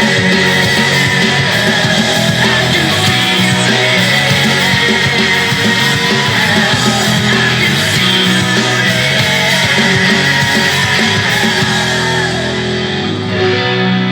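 Rock music: an electric guitar played through a Zoom G5n multi-effects pedal over a full band. About twelve seconds in, the top end drops away and the guitar is left more exposed.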